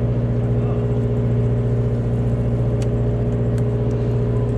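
A boat's engine running steadily at low speed, a constant low hum, with a few faint clicks over it.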